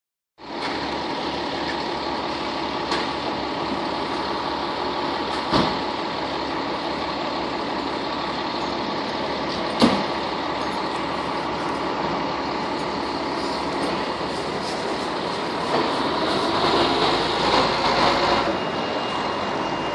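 FDNY fire engine's diesel engine running steadily as the rig returns into the firehouse. Short sharp sounds stand out about 3, 5.5 and 10 seconds in, and it gets a little louder and busier near the end.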